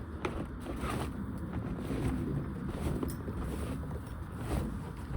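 A broom sweeping light, fluffy snow in short, irregular swishes, over a low rumble of wind on the microphone.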